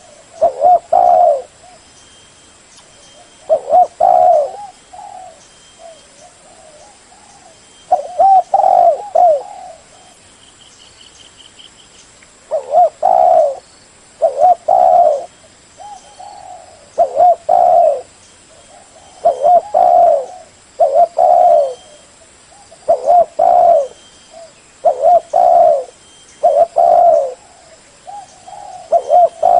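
Spotted dove cooing: a male's low, repeated cooing phrases, one every couple of seconds with brief pauses between groups, the call used to lure wild doves.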